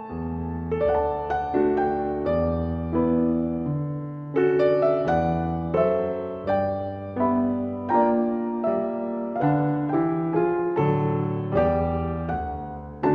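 Background piano music: a slow melody over sustained bass notes, each note struck and fading.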